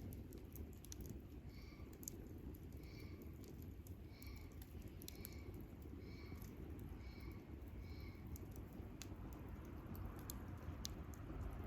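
Wood campfire crackling with scattered sharp pops over a low steady rumble. A short pitched call from a bird or other animal repeats about once a second for several seconds, then stops a little past the middle.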